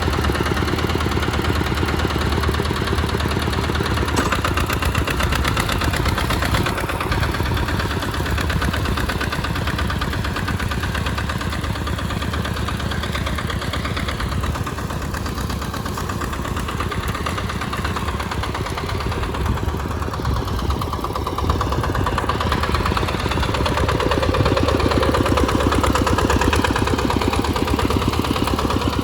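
RT 140 Plus tractor's single-cylinder diesel engine running steadily with a fast, even beat while plowing through mud, a little louder near the end.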